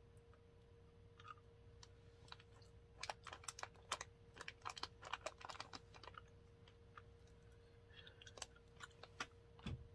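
A person chewing a piece of candy corn: faint clusters of quick clicking mouth sounds starting about three seconds in and again near the end, over a faint steady hum.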